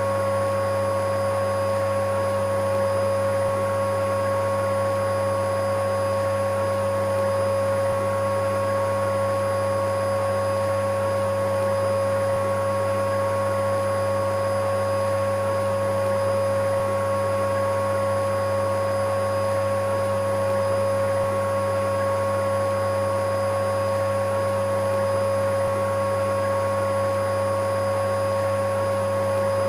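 Electric vacuum cleaner running steadily: an unbroken motor drone with a constant high whine.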